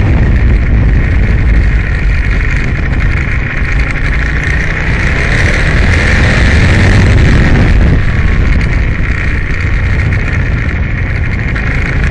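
Aprilia Tuono motorcycle running hard, its engine rumble mixed with heavy wind rush, and faint rises and falls in engine pitch as it revs.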